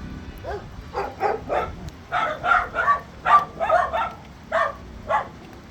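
Short, sharp animal calls repeated about a dozen times in quick, irregular succession, over a low steady background noise.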